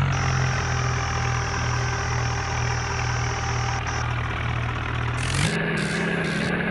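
Tractor engine running steadily at low revs. About five and a half seconds in, it revs up again.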